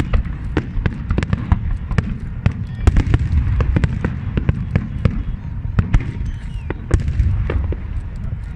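Fireworks display: a dense run of sharp cracks and pops, several a second, over a continuous deep booming rumble from the bursts.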